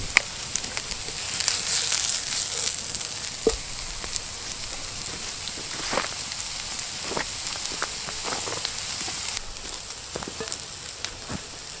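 Diced onions and bacon sizzling in oil in a pan over a campfire, a steady hiss with scattered sharp pops. The hiss eases slightly near the end.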